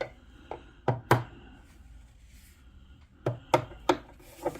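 Vacuum cleaner parts and accessories being handled and fitted together: a series of sharp knocks and clicks, a few in the first second and more in the last second and a half, with a quiet pause between.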